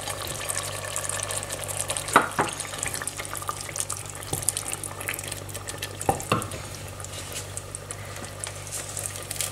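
Chopped tomatoes and turkey meat sizzling in a stainless steel pot while a wooden spoon stirs them, with fine crackling throughout. The spoon knocks against the pot a couple of times about two seconds in and again about six seconds in.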